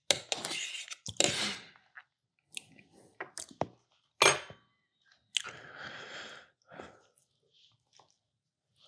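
Close-miked chewing of a meatball sub with mac and cheese: wet, irregular mouth noises with scattered sharp clicks, louder in the first second or so.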